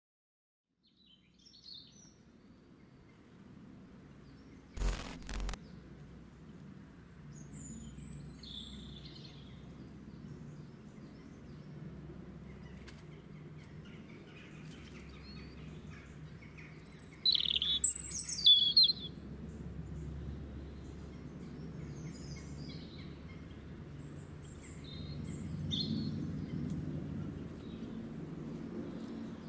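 Birds chirping in short, scattered calls over a low steady background rumble, with a loud flurry of calls near the middle. Two sharp clicks come about five seconds in.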